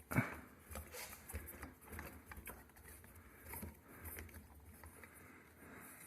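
Hands working the fan's wiring and mounting parts into the ceiling box: scattered light clicks and rustles, with a sharper knock right at the start.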